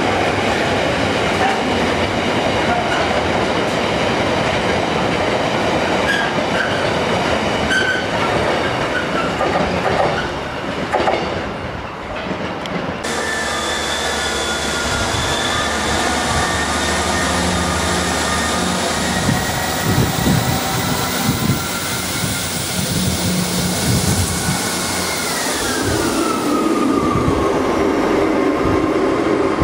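Container freight train wagons rolling past, a steady rumble with clatter of wheels over rail joints. About 13 s in this gives way to a Class 158 diesel multiple unit running along the platform, its engine and drive making steady tones, with a whine that falls in pitch about 25 s in.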